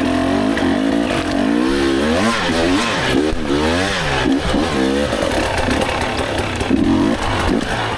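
Off-road dirt bike engines revving up and down over and over, the pitch rising and falling with each blip of the throttle as riders pick their way through a tricky technical section.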